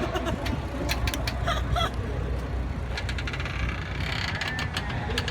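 Rapid mechanical clicking and ratcheting from the tethered balloon's gondola and winch cable as it is winched down, over a steady low wind rumble on the microphone.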